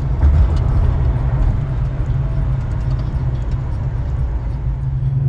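A 1979 Chevrolet Caprice on the move: a steady, low engine and road rumble.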